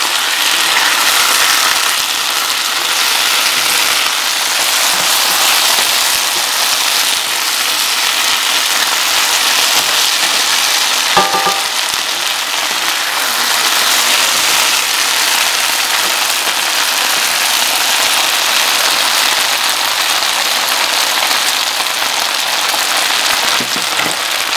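Chicken, bell peppers and onion in oyster sauce sizzling and crackling steadily in a hot stir-fry pan. One short ringing tap about eleven seconds in.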